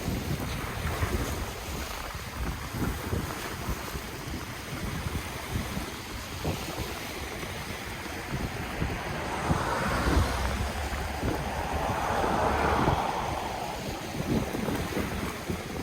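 Ocean waves washing onto the shore, with a wave surging in louder around two-thirds of the way through and falling away. Wind buffets the microphone throughout, giving a low rumbling flutter.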